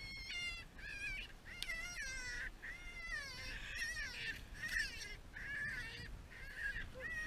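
Young jackrabbit screaming in distress as a goshawk holds it: a run of high, wavering cries, about one a second.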